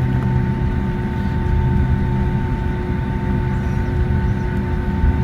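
Boeing 757-200 jet engines at taxi power, heard from inside the passenger cabin: a steady low rumble with several constant whining tones above it.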